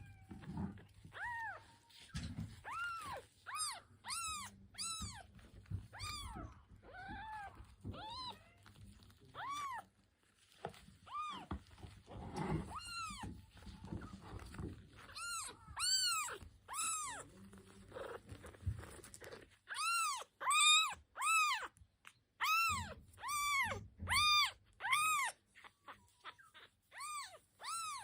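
A nursing-age kitten meowing over and over in high, rising-and-falling cries, one or two a second in runs with short pauses. Low bumps and rustling sound underneath.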